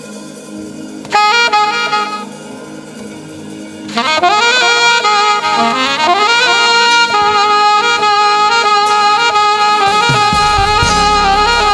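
Saxophone playing a slow worship melody over a soft held keyboard chord. A first note sounds about a second in, then from about four seconds in come louder long notes that slide up into pitch. A low bass comes in near the end.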